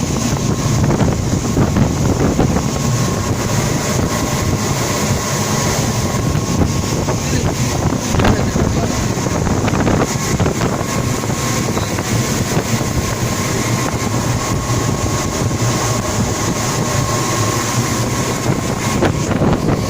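Passenger ferry's engines running steadily under way, with strong wind buffeting the microphone and a thin steady whine.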